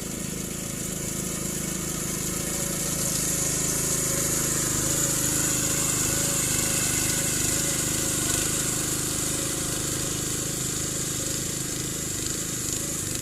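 Small engine of a walk-behind rice reaper running steadily, growing slightly louder over the first few seconds, with a steady high hiss above it.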